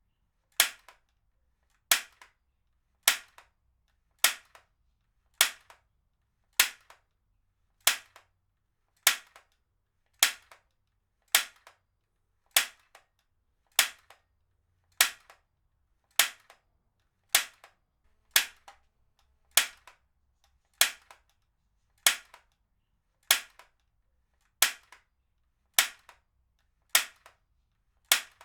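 Heavy-duty stapler fired over and over, a sharp snap a little more often than once a second, each followed closely by a fainter second click.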